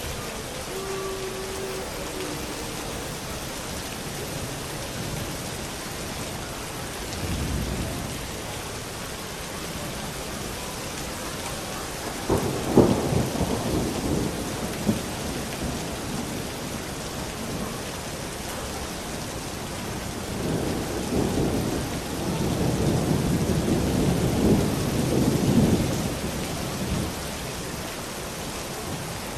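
Steady rain with thunder. There is a short low rumble about a quarter of the way in, a sharper clap that rumbles off near the middle (the loudest moment), and a long rolling rumble through the last third.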